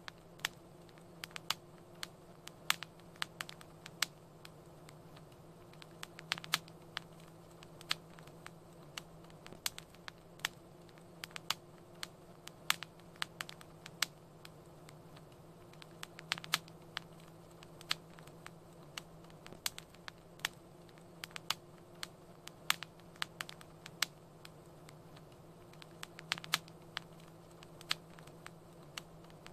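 Fireplace wood fire crackling: irregular sharp pops and snaps, several a second, over a faint steady low hum.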